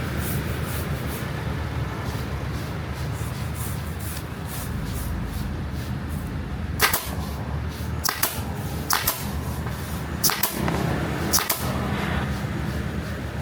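Steady low machine hum with several sharp clicks or snaps in the second half, a few seconds apart.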